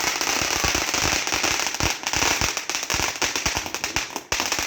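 Firework crackling: a rapid, unbroken stream of small sharp pops over a steady hiss, dipping briefly about four seconds in.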